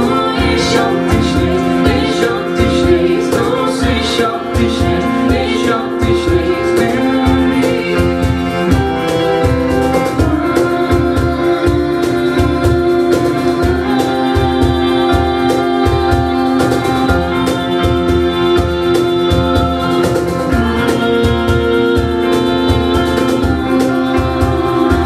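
Live band playing an instrumental passage: sustained organ-like keyboard chords over a steady low beat.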